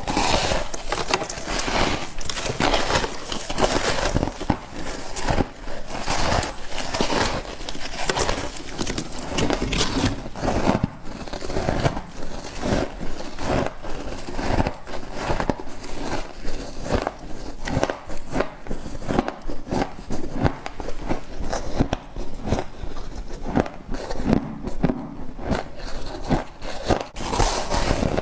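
Close-up chewing of frost ice: a steady run of crisp, crackling crunches.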